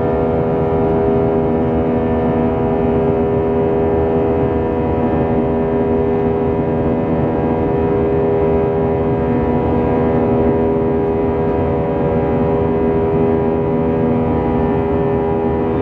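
Airbus A320's CFM56 turbofan engines droning steadily, heard from inside the passenger cabin, with a constant hum of several steady tones over a rushing roar.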